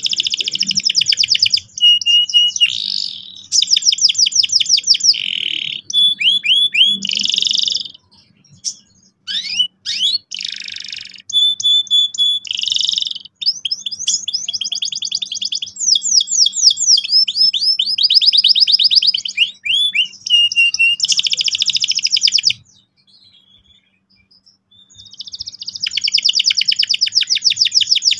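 Domestic canary singing a long, loud song of fast rolling trills and rapid repeated notes, broken by short pauses, with a gap of about two seconds near the end. A faint steady hum runs underneath.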